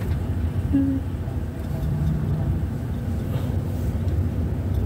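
Steady low rumble of a vehicle's engine and road noise while travelling along the road, with a faint passing hum about two seconds in.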